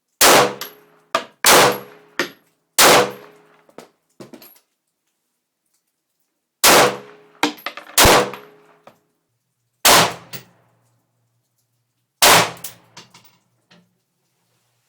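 Radom VIS 35 9mm semi-automatic pistol firing seven shots: three about a second and a half apart, then after a pause of nearly four seconds four more at uneven gaps. Each shot rings out and is followed by lighter metallic clinks.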